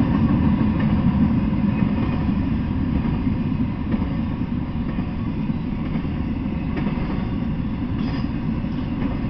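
Freight train rolling past, a steady low rumble of wheels on rails.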